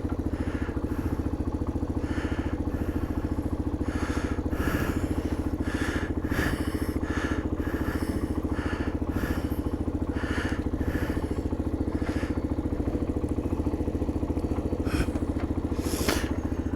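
MGB ATX 125 cc adventure motorcycle engine idling steadily.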